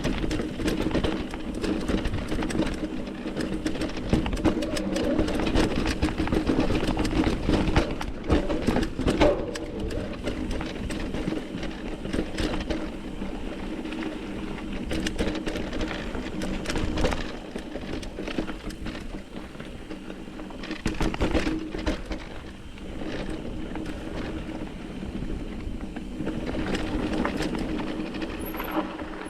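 Mountain bike ridden over a rough dirt and rock trail: tyres on the ground, irregular clatter and knocks from the bike over bumps, and a steady mechanical buzz beneath.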